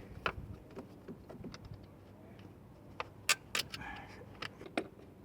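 Scattered metallic clicks and clinks of tools and fasteners being handled while an alternator's wiring and bolts are fitted. The sharpest click comes about three seconds in.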